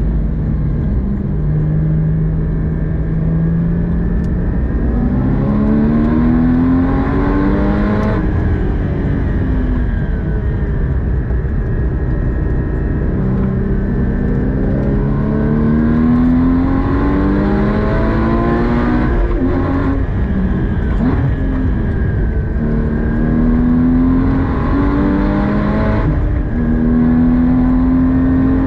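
Porsche 981 Cayman GT4's 3.8-litre flat-six heard from inside the cabin, pulling hard on track: the revs climb, drop back at each upshift, fall away when the driver lifts off, then climb again. A steady rumble of tyre and road noise runs underneath.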